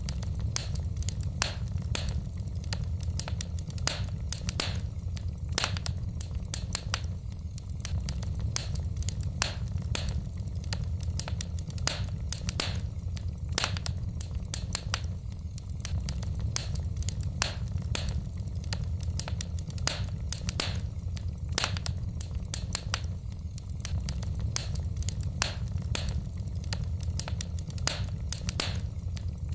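Wood fire burning in a fireplace: burning logs crackling and popping in irregular sharp snaps, several a second, over a steady low rumble of the flames.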